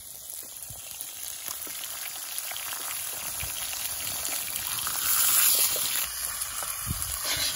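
Steak and fried eggs sizzling in a cast iron grill pan over a wood fire, with scattered small crackles. The sizzle grows steadily louder.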